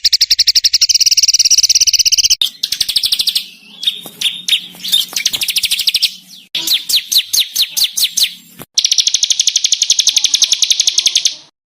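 Small songbirds giving fast, harsh rattling trills, the 'tembakan kasar' bursts used in birdsong training recordings: runs of rapidly repeated high notes lasting a few seconds each, broken by short gaps, stopping shortly before the end.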